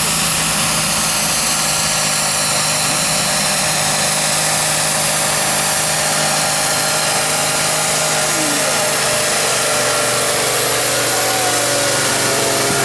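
International 1455 XL tractor's diesel engine running steadily and loudly under load during a pull.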